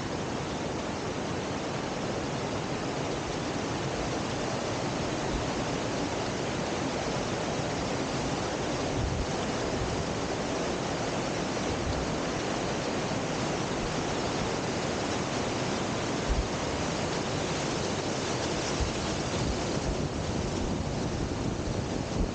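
Waterfall rushing steadily, a dense, even roar of falling water, with a few brief low thumps.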